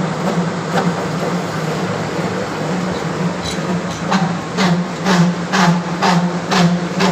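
A steady low hum, joined about four seconds in by regular knocks at about two a second.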